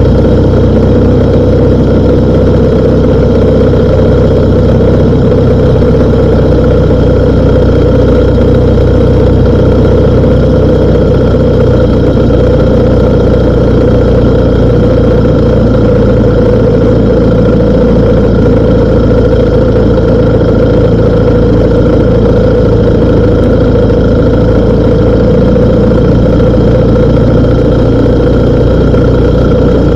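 BMW R1250 GS Adventure's boxer-twin engine running steadily at an even speed.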